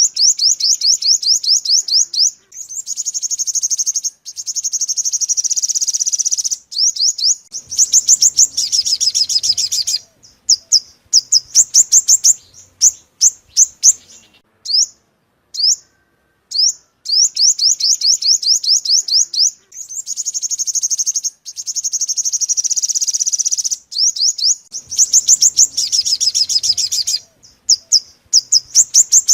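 Sunbird song, the yellow-bellied 'five-colour' bird, played as a lure call: rapid trills of short, high, rising notes in bursts of a few seconds, split by short pauses. The same sequence repeats about halfway through.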